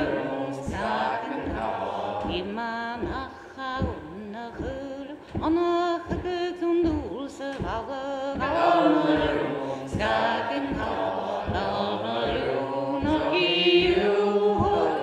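A group singing a Gaelic milling song unaccompanied, with a steady beat of thumps underneath from the woollen cloth being pounded on the milling table to shrink it.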